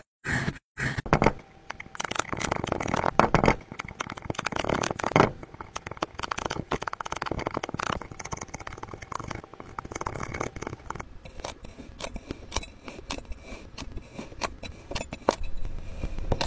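Slime being worked by hand, sticky and crackling: a few short separate bursts in the first second or so, then continuous crackling with many small clicks and pops.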